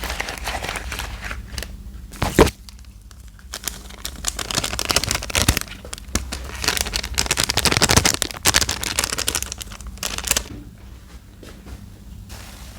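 Thick laundry-detergent soap paste being worked and mixed, giving a dense wet crackling in long stretches, with a sharp click about two and a half seconds in.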